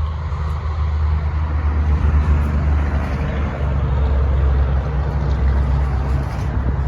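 A large vehicle engine running steadily with a deep, low rumble, swelling slightly in the first couple of seconds and then holding.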